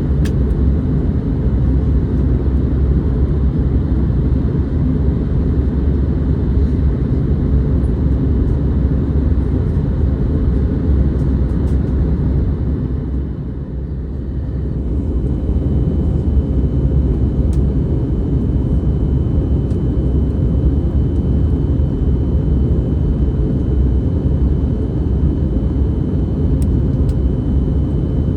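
Airbus A321neo cabin noise during the descent: a steady low rumble of the engines and airflow with a faint constant hum, easing off briefly about halfway through and then returning.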